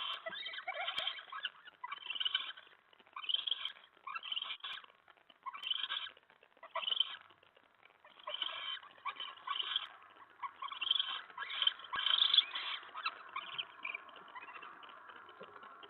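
Owls in a nest box giving repeated harsh hissing screeches, one burst roughly every second, fading to a softer hiss near the end.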